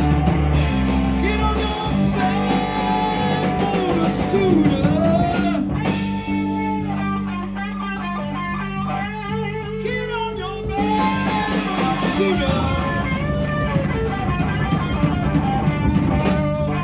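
Rock band playing, a guitar to the fore with bending, gliding notes over bass and drums.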